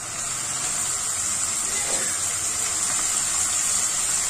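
Chopped watercress sizzling as it goes into hot mustard oil in a wok: a steady hiss that grows a little louder as the greens hit the pan.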